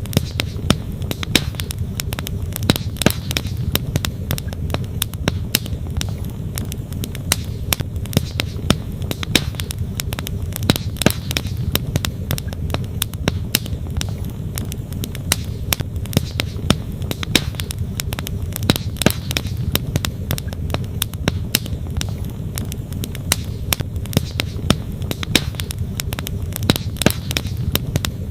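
Campfire wood crackling with frequent irregular sharp pops, over the steady low rush of a flowing stream.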